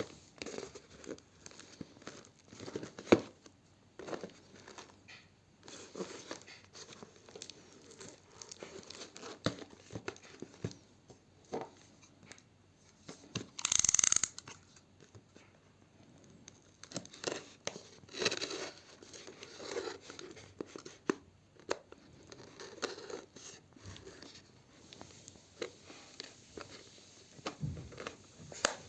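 Parcel packaging being torn open by hand: rustling and crinkling with scattered clicks and handling knocks, and one loud rip about halfway through.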